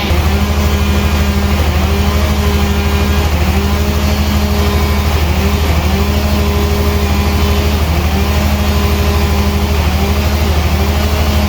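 Sawmill machinery running steadily: a low engine drone with a tone that dips and recovers about once a second.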